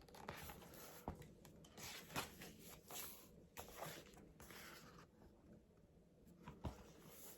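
Near silence: faint rustling with a few soft taps of something being handled.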